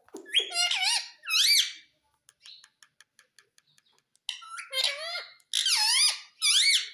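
Pet Indian ringneck parakeet giving shrill, sharply gliding calls in two loud bursts, with a run of faint rapid ticks between them.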